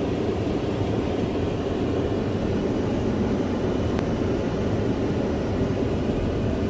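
Steady low rumble of a truck running, with a faint click about four seconds in.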